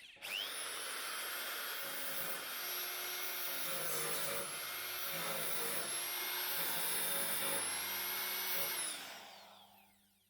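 An electric power tool's motor spins up, runs steadily with a high whine for about nine seconds, then winds down and stops.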